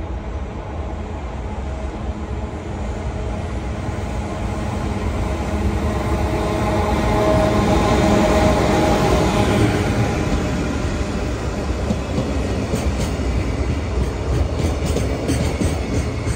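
Freight train passing: the sound builds to its loudest about eight seconds in as the locomotive goes by, with tones that fall in pitch, then the wagons clatter over rail joints in a quick run of clicks.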